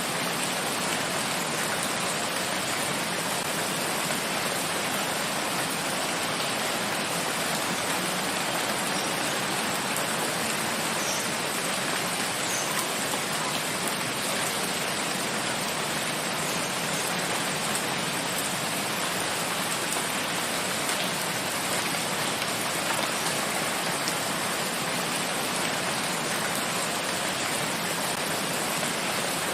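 Steady, even rain falling in a forest, a constant wash of hiss with a few faint drop ticks.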